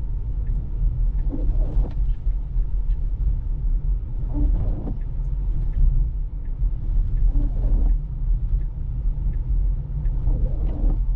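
Steady low rumble of an electric car's tyres on a snowy road, heard from inside the cabin, with a short swishing sweep about every three seconds.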